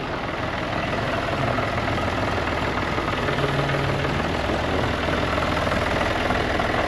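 Heavy farm-machinery diesel engine idling steadily.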